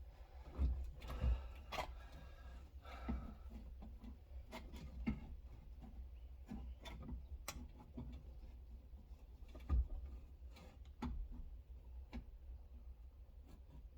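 Irregular light clicks and knocks of tools and metal parts being handled, as window glass and regulator fixings inside a car door are worked into line.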